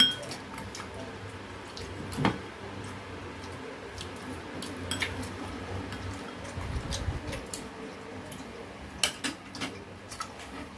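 Scattered light clinks and taps of eating utensils against plates and dishes, with a louder knock about two seconds in.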